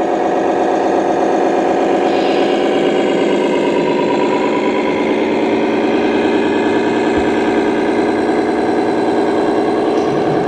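Simulated diesel truck engine from a 1/14-scale RC model truck's sound module, idling steadily.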